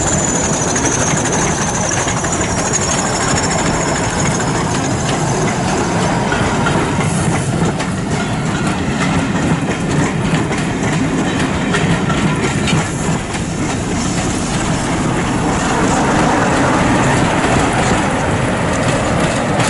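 Diesel-hauled passenger train departing: coaches roll past with the clickety-clack of wheels over the rail joints, while a high whine from the leading Class 20 locomotives falls in pitch and fades in the first few seconds. Near the end the sound swells as the Class 47 locomotive at the rear passes close by.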